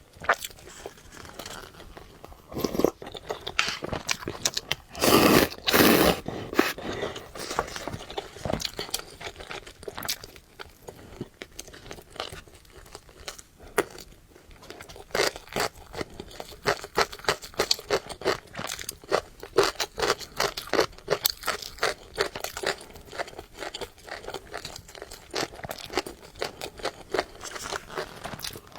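A person eating noodles close to the microphone: wet chewing and crunching clicks, with a loud noisy stretch about five seconds in, then quick rhythmic chewing through the second half.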